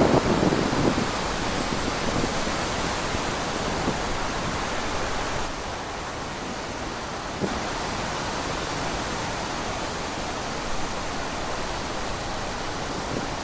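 Wind blowing steadily through trees, with a louder gust at the start that eases off to a steady rush.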